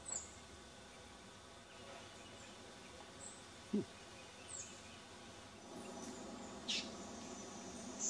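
Faint background noise with a few scattered short, high bird chirps, the loudest a quick downward note near the end, and a brief low knock about four seconds in.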